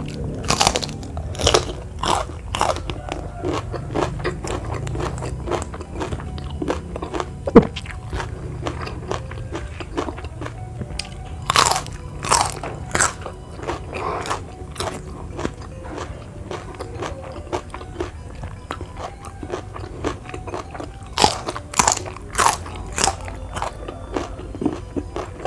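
Crisp bites and chewing of raw vegetables close to the microphone: sharp crunches come in several bouts, with quieter chewing between them.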